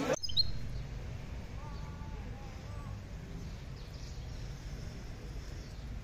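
A caged songbird giving a few faint chirps over a steady low outdoor rumble.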